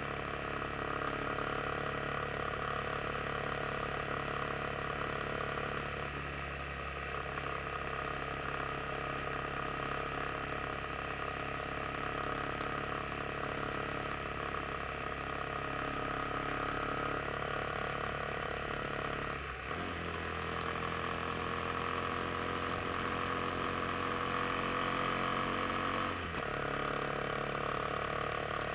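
Yamaha XT250's single-cylinder four-stroke engine running steadily under way. Its pitch shifts about six seconds in and again about twenty seconds in, then climbs slowly for several seconds before dropping near the end.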